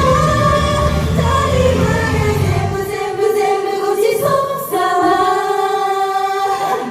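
K-pop idol song with group vocals. About three seconds in, the bass and beat drop out, leaving long held sung notes. A short break comes right at the end.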